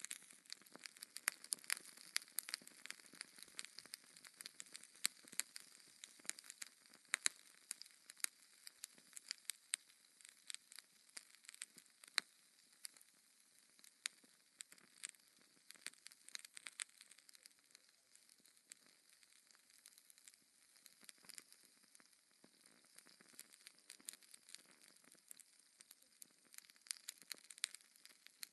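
Wood fire crackling in a fireplace: irregular sharp pops and snaps over a faint hiss. The crackling thins out for a few seconds past the middle and picks up again near the end.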